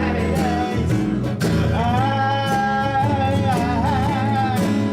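Live band music: guitar and bass accompaniment with a long held melody note that wavers in pitch, in the gap between sung lines of the refrain.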